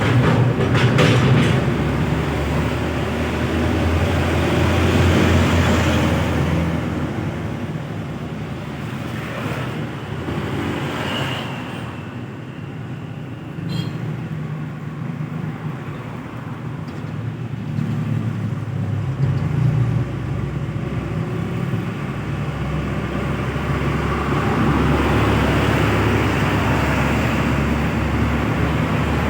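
Road traffic with heavy trucks passing: engines running low and tyre noise, growing louder and fading again as vehicles go by, quietest about halfway through.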